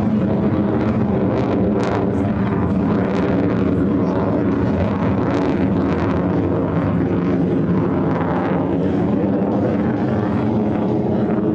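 Fighter jet engine noise, loud and steady throughout, a dense roar with a stack of steady engine tones beneath it.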